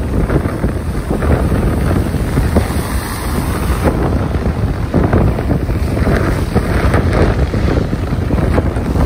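Ocean waves surging and washing, with strong wind buffeting the microphone as a steady low rumble.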